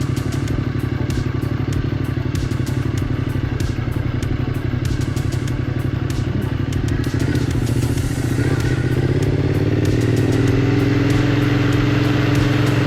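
Triumph Scrambler motorcycle engine running under way, with many sharp clicks and clatter over the first several seconds. About eight seconds in, the engine pitch rises as the bike accelerates.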